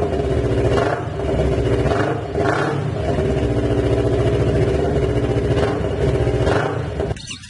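Yamaha MT-25 parallel-twin engine running through an aftermarket racing exhaust, held at high revs with several brief throttle blips and dips. The sound cuts off abruptly near the end.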